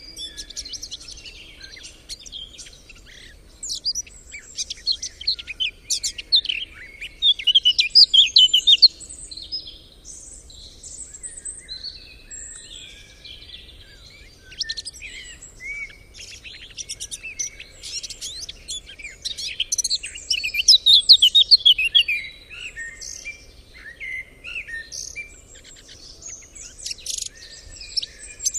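Several small birds singing and chirping over one another, with two louder spells of rapid, trilling song about four to nine seconds in and again around twenty seconds in.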